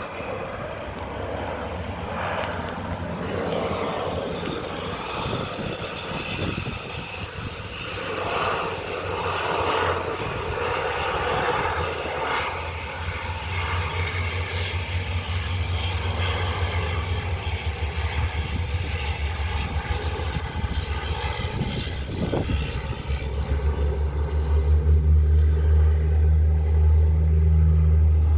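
Canadair amphibious water bomber's engines and propellers droning, growing louder toward the end, when a heavy low rumble comes in.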